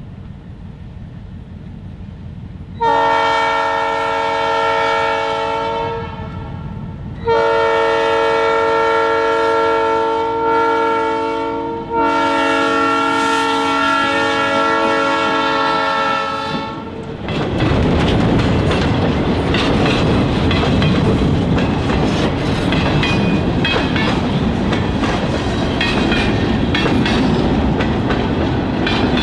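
Diesel locomotive air horn sounding three long blasts, each a chord of several steady notes. After the third blast the train passes close by with a loud rumble and a steady clicking of wheels over the rails.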